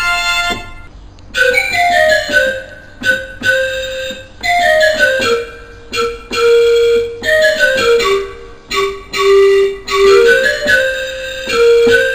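Electronic keyboard playing a single-note melody with a piano-like voice: short phrases of quick falling runs and held notes, with brief gaps between phrases.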